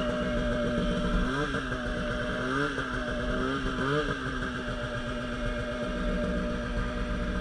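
Polaris RMK Pro 800 snowmobile's two-stroke engine running. Its pitch rises and falls briefly about three times in the first four seconds, then holds steady.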